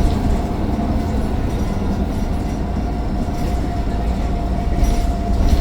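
Mercedes-Benz Citaro O530 bus heard from inside while under way: a steady low engine and road rumble with a steady whine held at one pitch, the turbo whine the bus is known for.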